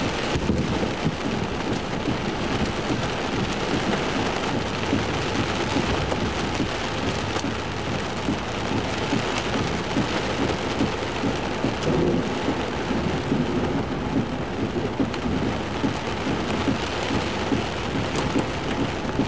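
Heavy rain and hail drumming on a pickup truck, heard from inside the cab, with a constant rush and many sharp hailstone ticks. Thunder rumbles underneath after a close lightning strike.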